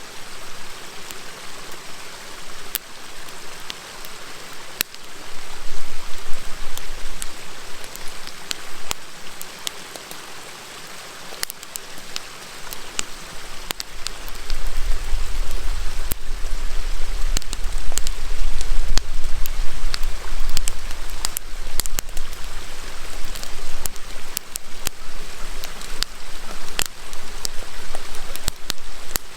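Wood campfire crackling with many sharp pops over the steady rush of a river. A low rumble comes in briefly about six seconds in and again from about halfway.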